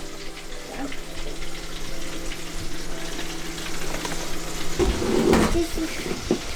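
Chicken drummets deep-frying in hot oil, a steady crackling sizzle, with a short louder noise about five seconds in.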